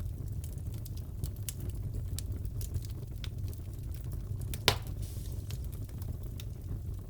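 Wood fire crackling in a fireplace: a steady low rumble of flames with scattered small crackles, and one sharper, louder pop a little past the middle.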